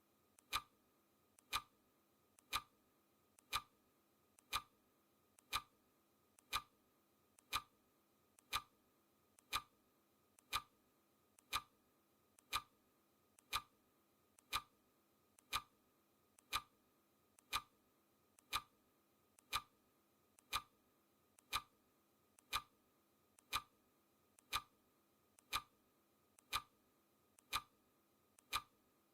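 Clock ticking sound effect, one sharp tick each second, with a fainter click just before each tick.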